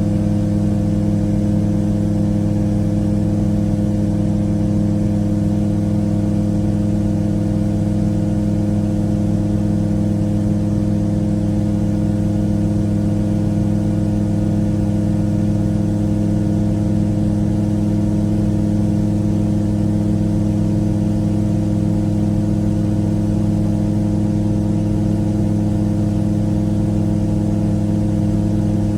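Titan Tornado light aircraft's engine and propeller running steadily at one unchanging pitch, a constant drone in flight.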